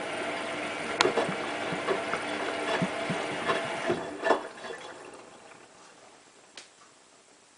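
Hotpoint WT960 washing machine running, with water sounds and a few clicks and knocks, then dying away to near quiet about five seconds in as the machine stops.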